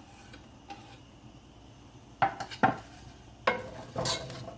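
Four sharp metallic clinks and knocks of a utensil against a cooking pot, each with a brief ring, starting about halfway through after a quiet stretch.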